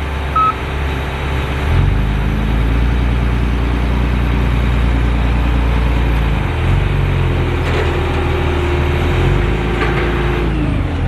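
Heavy diesel engine of harvest machinery running steadily, its engine note shifting a couple of times, with a short electronic beep right at the start and a steady higher whine joining for a few seconds in the second half before dropping away.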